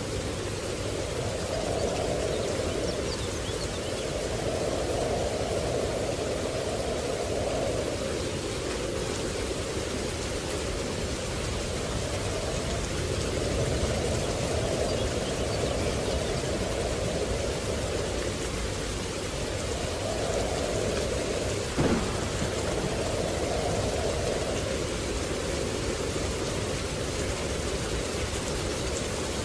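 Steady rain, its sound swelling and fading in slow waves every few seconds, with a single brief sharp crack about 22 seconds in.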